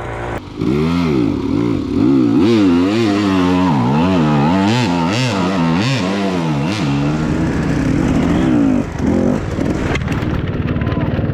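Dirt bike engine revving up and down over and over, its pitch swinging in quick swells as the throttle is worked. About seven seconds in it settles into a steadier, noisier running sound.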